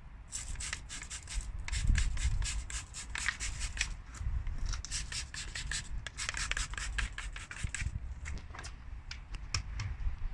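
Stiff detailing brush scrubbing diluted Surfex HD degreaser over engine-bay plastics in quick back-and-forth strokes, agitating loose grease. The strokes come in several spells with short pauses.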